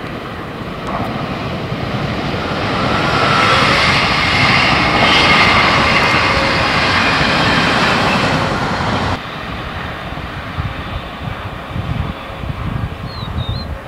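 Electric-locomotive-hauled passenger train (E.464) passing, its noise swelling to a peak about five seconds in, with a faint steady whine in it. It cuts off abruptly about nine seconds in, leaving wind buffeting the microphone and a brief bird chirp near the end.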